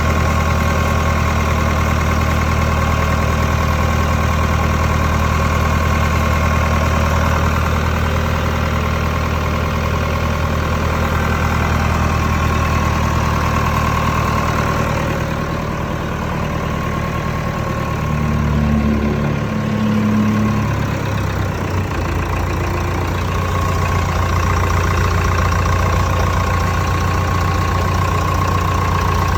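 Massey-Ferguson 188 tractor's Perkins 4.248 four-cylinder diesel engine idling steadily, with a brief change in its note around two-thirds of the way through before it settles back to a steady idle.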